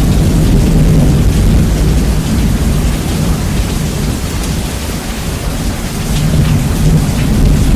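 Heavy rain with rumbling thunder, bass-boosted so the low end dominates. The low rumble eases a little midway and swells again near the end.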